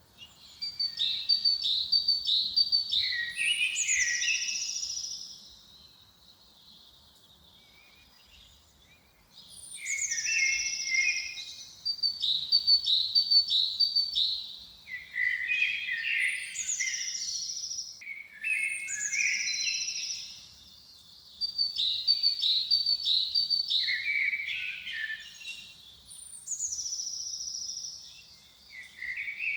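Songbird singing in repeated phrases of high, falling whistles and quick trills. The first phrase ends about five seconds in, and after a pause of about four seconds the singing resumes with short breaks between phrases.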